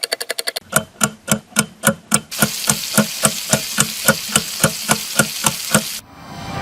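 A steady, evenly spaced beat of sharp knocks with a low thud, about four a second. A hiss joins the beat about two seconds in, and it all stops shortly before the end.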